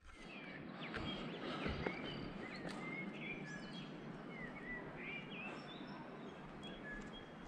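Several small birds chirping, with many short sliding whistles scattered throughout, over a steady background hiss.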